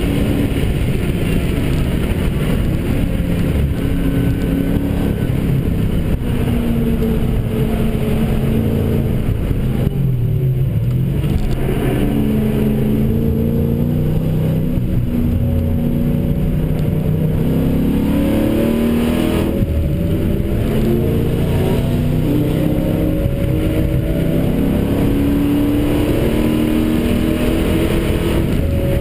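Dodge Challenger SRT8's V8 engine heard from inside the cabin while driven hard, its pitch climbing under acceleration and dropping at gear changes and lifts, over steady wind and road noise.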